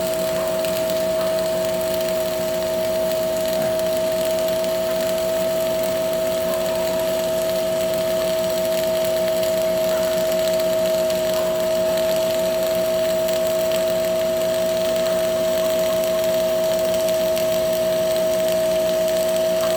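A machine running with a steady, unchanging hum that holds one strong tone.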